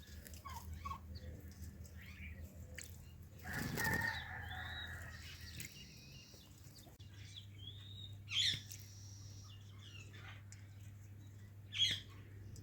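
Indian ringneck parrot flapping its wet wings while bathing, in a burst lasting about a second, then two short, sharp calls, the second near the end.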